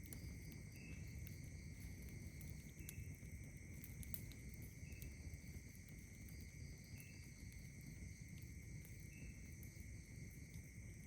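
Chorus of night insects trilling steadily at several high pitches, with a short chirp repeating about every two seconds. Faint, sparse crackles of a campfire and a low rumble sit underneath.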